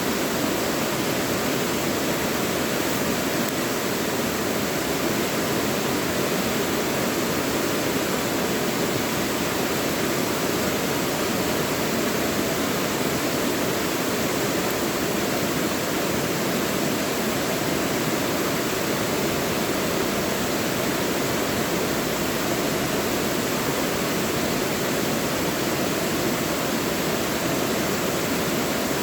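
Mountain valley stream rushing over rocks: a steady, unbroken water sound.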